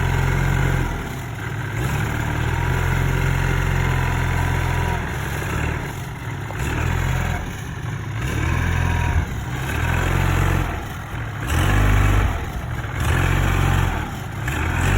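A tractor engine running, its sound swelling and dropping every second or two.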